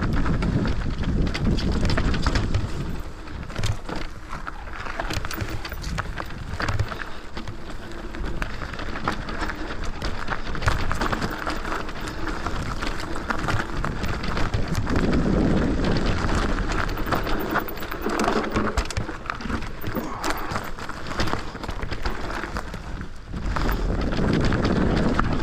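Electric off-road bike ridden down a loose, dusty dirt trail: tyres crunching over gravel and stones, frequent knocks and rattles from the bike, and wind rumbling on the microphone.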